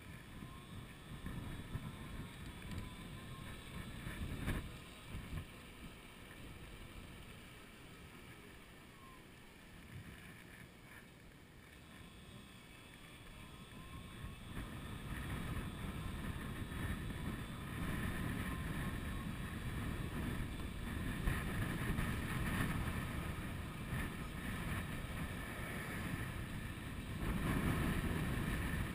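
Wind buffeting the microphone of a moving electric bicycle, a gusting rush that grows louder from about halfway through.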